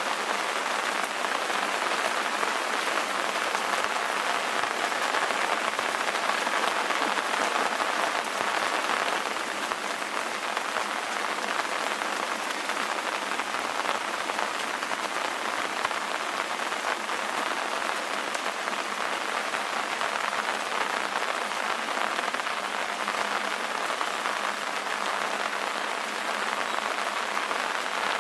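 Steady rain falling, an even, continuous hiss of drops with no thunder and little low end.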